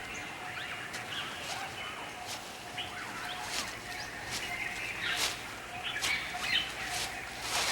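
Birds chirping and calling in forest ambience: many short, sharp chirps and clicks scattered over a steady background hiss.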